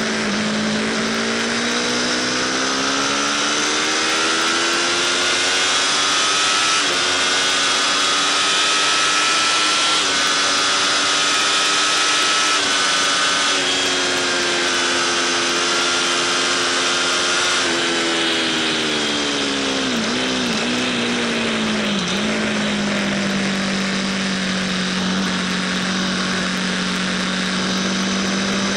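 Aprilia RSV4 Factory's V4 engine pulling hard and climbing in pitch through several upshifts, then dropping in steps as it downshifts under braking, running at a steady pitch through a corner and picking up again near the end. A constant rush of wind runs underneath.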